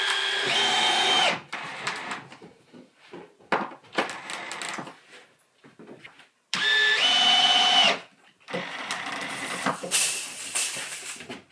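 Cordless power drill running in short bursts. Its motor whine steps up in pitch as the trigger is squeezed. Knocks and clatter fall between the runs.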